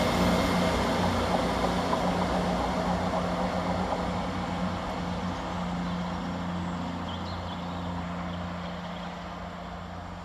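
ScotRail Class 158 diesel multiple unit coming in at the station, its diesel engine note running steadily while the overall sound of the train slowly dies away.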